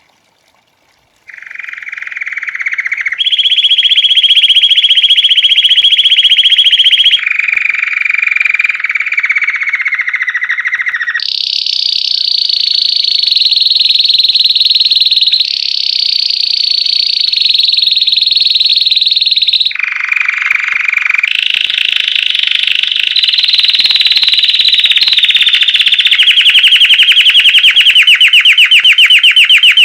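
Belgian canary singing a classic 'campainha' (bell) song: a continuous string of rapid trills, each held for a few seconds before jumping abruptly to a higher or lower pitch. The song starts about a second in and ends on a very fast pulsing trill.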